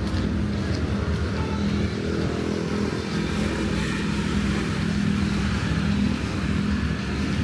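Road traffic: a motor vehicle's engine running close by with a steady low hum, over general street noise.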